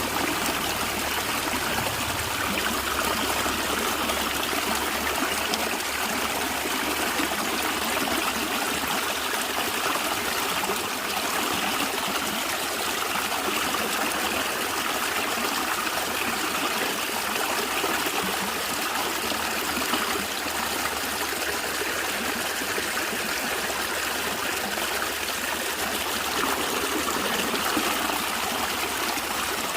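A natural stream gurgling and trickling over rocks: a steady, even rush of running water.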